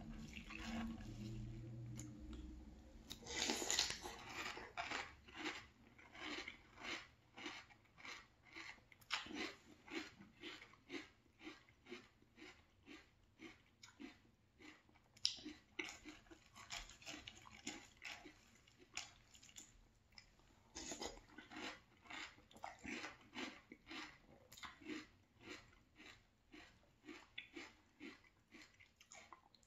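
A person chewing a mouthful of frosted corn flakes in milk: steady, faint crunching at about two crunches a second.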